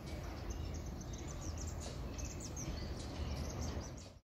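Small birds chirping: many short, high calls over a steady low background rumble.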